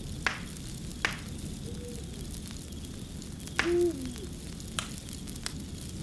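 Wood fire crackling steadily with sharp pops about five times. About three and a half seconds in, a brief low pitched sound that drops in pitch stands out as the loudest moment, with a fainter one of the same kind earlier.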